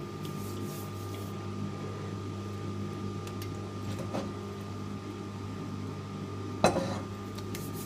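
Microwave oven running with a steady hum, with one sharp knock near the end.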